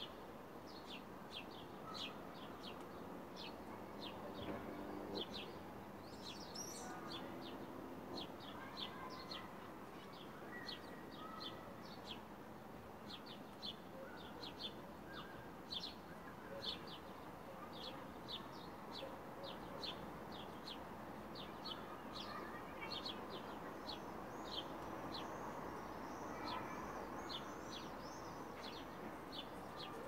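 A small bird chirping over and over in short, high chirps, about two a second, keeping on steadily.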